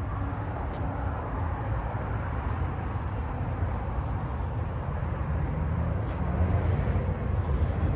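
Motorcycle engine running with a low, pulsing rumble that gets louder over the last couple of seconds.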